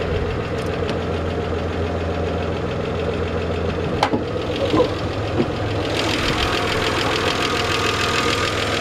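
Idling 2.5-litre V6 of a 1987 Acura Legend, running steadily with the hood open. There is a sharp click about four seconds in, and a hiss joins about six seconds in.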